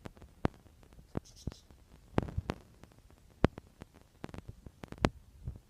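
Pet budgerigar making irregular sharp clicks and light scratching, with a brief faint high chirr about a second and a half in.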